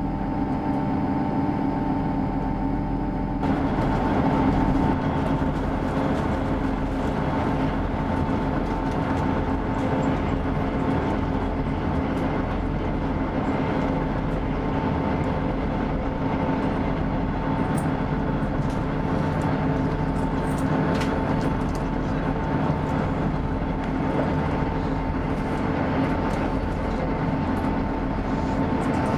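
Onboard running noise of a Class 158 diesel multiple unit pulling away from a station: a steady engine and transmission hum with held tones, which swells suddenly into a fuller rumble about three and a half seconds in. It then settles into steady running noise of the engine and the wheels on the rails.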